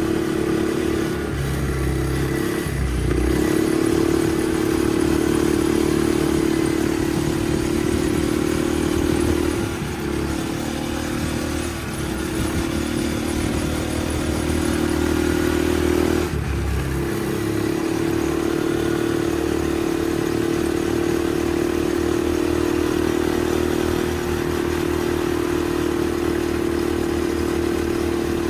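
Off-road buggy engine running steadily under way, with a continuous drone. The engine note breaks and changes briefly twice, about three seconds in and again about sixteen seconds in, then settles back to a steady run.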